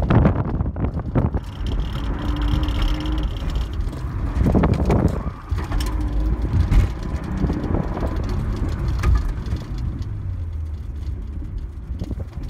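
1988 Toyota Supra's 7M-GE straight-six engine heard from inside the cabin, revving up and easing off as the car is driven hard around a course.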